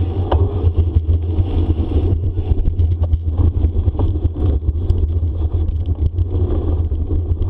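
Wind rumble and tyre noise from a bicycle ridden fast along a dirt forest trail, with many small rattles and clicks throughout.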